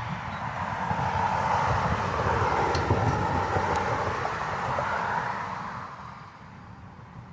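A vehicle passing by: a rushing noise that swells to a peak about two to three seconds in, then fades away.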